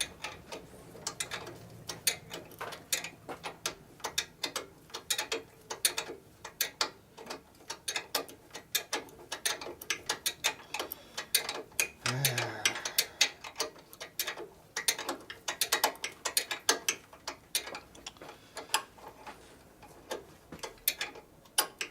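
Sharp metallic clicks of hand tools being worked on the motorcycle, coming in quick uneven runs, with a brief voice about halfway through.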